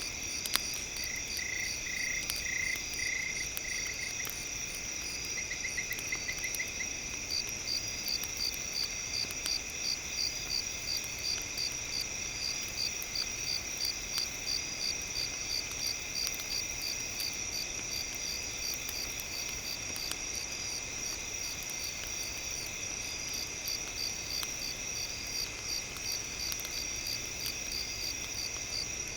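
Chorus of crickets and other night insects: steady high trilling, with a regular chirp about two to three times a second from about seven seconds in and a few short pulsed calls early on, over a few faint scattered crackles of a campfire.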